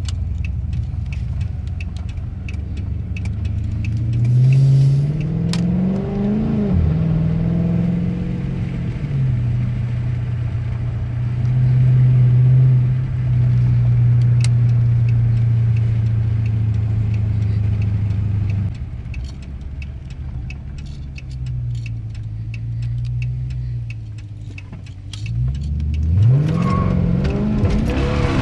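2013 Dodge Charger R/T's 5.7-litre Hemi V8 under way. It revs up a few seconds in, holds a steady note, falls away suddenly about two-thirds of the way through, then revs up again near the end.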